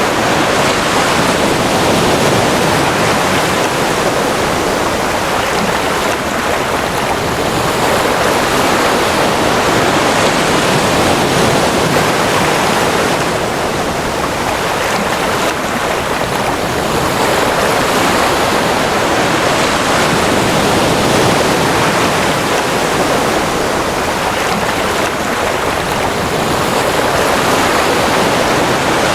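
Ocean waves washing on a shore, a steady rushing surf that swells and eases gently every several seconds.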